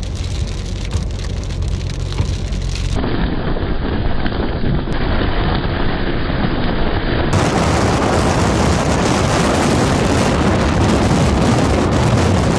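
Heavy rain pouring, a dense steady hiss that grows fuller and louder about seven seconds in. In the first few seconds it is mixed with the low rumble of a car driving on a wet road.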